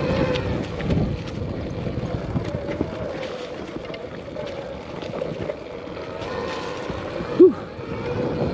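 Arctic Leopard XE Pro electric dirt bike riding on trail: a steady motor whine that wavers with speed, over wind on the microphone and tyre noise. One brief loud sound comes near the end.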